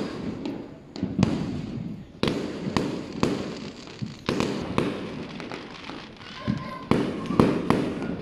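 Aerial fireworks going off overhead: a run of sharp bangs, about one every half second to a second, each trailing off in an echo.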